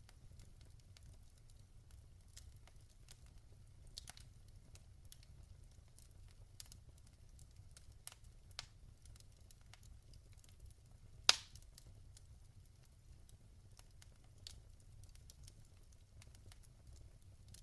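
Burning logs in a fireplace crackling faintly, with scattered small pops and one sharp, much louder pop about eleven seconds in, over a steady low rumble.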